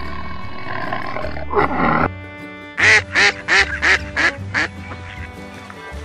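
Six loud, short honking bird calls in quick succession, with music playing under them. A harsh, raspy animal sound fills the first two seconds and stops abruptly before the calls.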